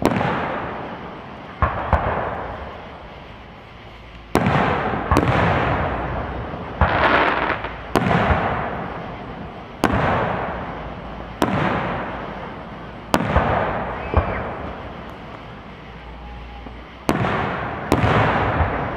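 Aerial firework shells bursting: about a dozen sharp booms, one every second or two, each followed by a rumbling echo that fades over a second or two.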